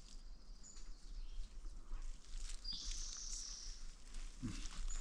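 Faint bird chirps and short whistles, with a longer run of chirping in the middle, over a low steady rumble of wind.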